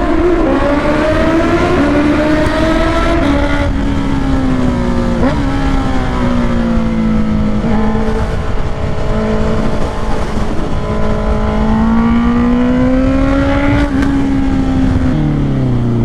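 Honda CBR650R's inline-four, loud through a Black Widow exhaust with its dB killer removed, pulling through the gears on the road. The engine note climbs and drops at each shift, then falls away near the end as it slows.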